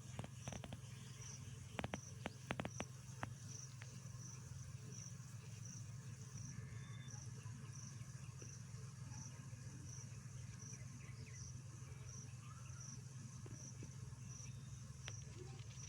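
An insect chirps evenly, a short high chirp just under twice a second, over a steady low hum. A few sharp clicks come about two to three seconds in.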